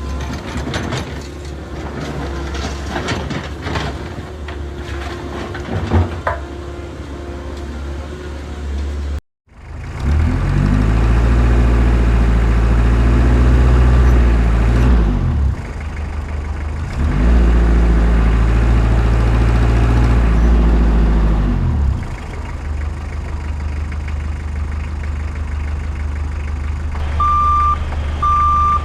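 RC construction machines (1:14 scale HUINA excavator and dump trucks) working: clattering and clicking at first, then after a cut a motor running in two long spells, its pitch rising as each starts and falling as each ends. Near the end a steady run of high reversing beeps sounds, as from a dump truck backing up.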